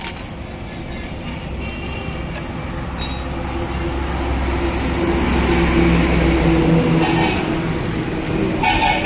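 Low rumble of a large passing vehicle that builds to a peak about six seconds in and then eases off, with a steady droning tone in it. A couple of light metal clinks about three seconds in.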